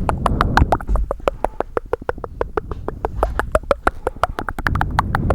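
Fast, aggressive tapping close to a very sensitive microphone: a rapid run of sharp taps, about eight to ten a second, with a low rumble under them near the start and again near the end.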